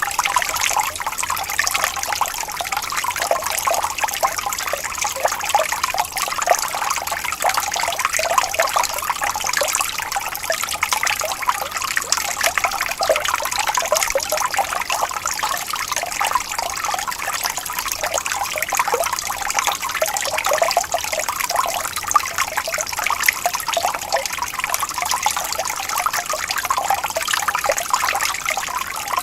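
Water trickling and babbling steadily over stones in a small stream, an even splashing with fine bubbling detail and no change in level.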